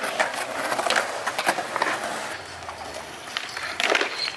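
Skate wheels rolling on concrete, with scattered sharp clacks and knocks throughout.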